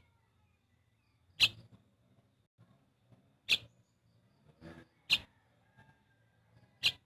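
A pet bird giving short, sharp, high chirps, four of them about every one and a half to two seconds, with fainter softer calls between.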